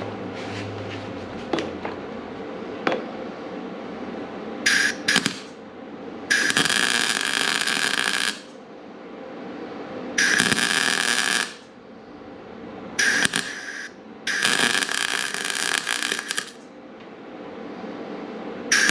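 Arc welding on a dirt late model's steel tube frame, laid down in about six separate beads or tacks. Each is a loud hissing burst of one to two seconds, with short pauses between, over a steady shop hum.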